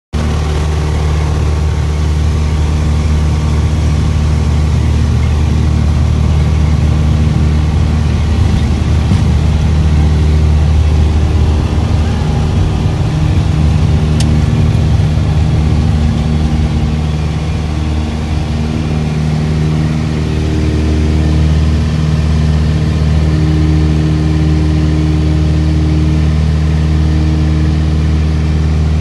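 Small private plane's engine running steadily at high power during takeoff, a loud continuous engine note that dips slightly about eighteen seconds in.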